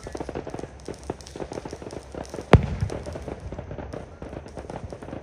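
Fireworks display: a rapid run of crackling pops, with one loud shell burst about two and a half seconds in that booms and rumbles briefly.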